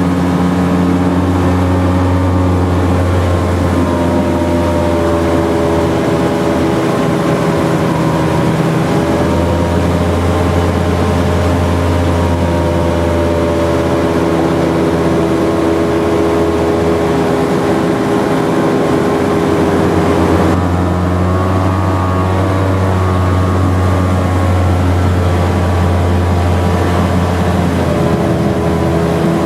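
Jet boat's engine running steadily under way, a loud drone with a strong low hum. Its pitch wavers slightly and changes abruptly about twenty seconds in.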